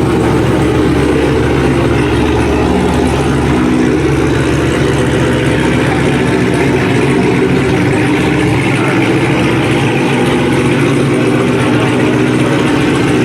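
Muscle car engines running steadily at low speed as the cars idle and creep past in a slow procession.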